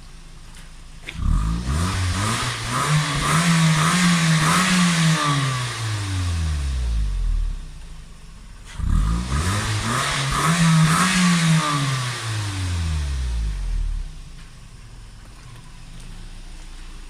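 Toyota 1NZ-FE 1.5-litre inline-four engine revved twice from idle, each rev climbing over about three seconds and falling back, then settling to a steady idle.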